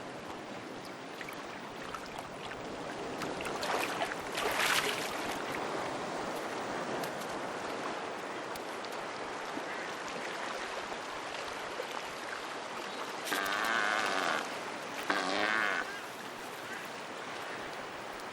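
Sea surf washing steadily, rising briefly about four seconds in. Near the end come two low, wavering animal calls, each about a second long.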